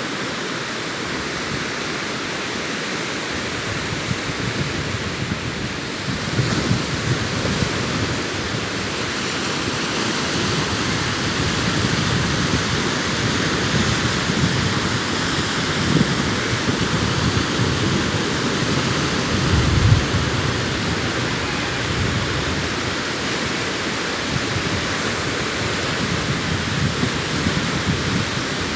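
Sea waves breaking on a beach: a steady wash of surf with heavier surges now and then, the strongest about twenty seconds in.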